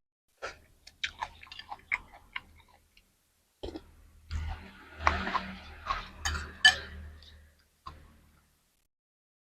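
A person eating noodle soup close to the microphone: a run of small mouth clicks and chewing, then a denser stretch of chewing noise from about four seconds in that dies away near the end.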